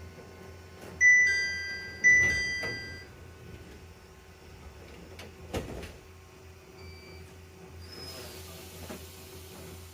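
A chime strikes twice, about a second apart, each note ringing and fading out, over a steady low hum; a short knock follows a few seconds later.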